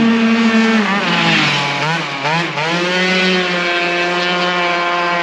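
Tuned 94cc two-stroke Yamaha Aerox scooter engine with an expansion exhaust, running at speed. Its pitch drops about a second in, wavers up and down around two seconds, then holds steady again.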